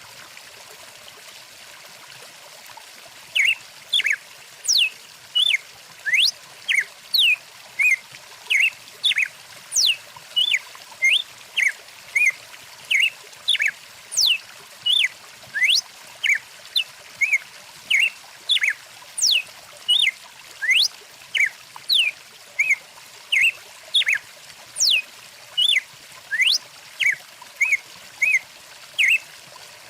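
A stream running steadily. From about three seconds in, a songbird calls over and over, about three times every two seconds: short chirps and quick rising and falling whistles, louder than the water.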